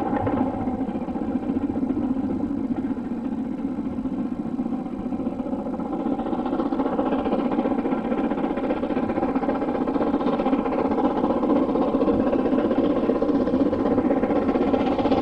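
A railway locomotive running with a steady, continuous engine-like noise that grows a little louder and brighter from about halfway.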